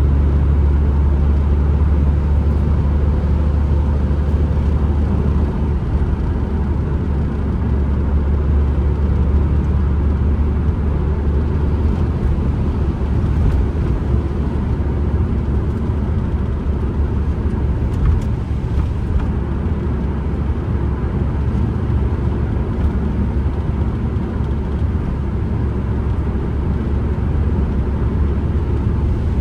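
Inside the cabin of a Ford Transit Connect van while driving: a steady, low rumble of engine, tyres and wind, with one brief knock a little past the middle.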